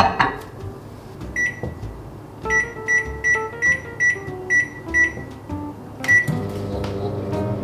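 Microwave oven being shut and started: the door closes with a knock, the keypad beeps once and then eight times in a quick run as the cooking time is entered, and after a last beep the oven starts running with a steady hum.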